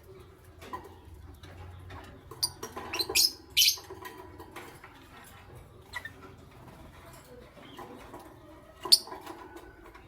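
Lovebirds giving short, shrill chirps: a quick cluster about two and a half to four seconds in and one loud chirp near the end, with soft shuffling noise between.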